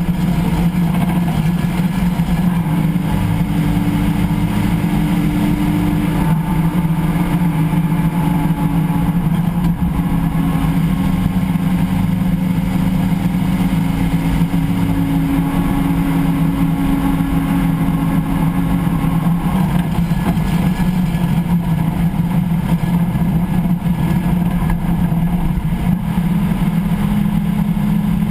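Vehicle driveline and road noise heard from beneath the car near the rear axle pinion while driving: a steady low drone with a higher whine that rises in for several seconds twice and fades out again. The drivetrain noise on deceleration that is being chased.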